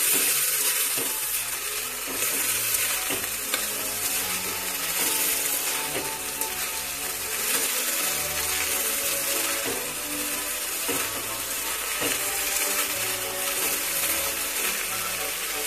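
Chopped banana flower and potato frying in oil in a metal kadai, sizzling steadily while a metal spatula stirs and scrapes them against the pan. Soft background music plays throughout.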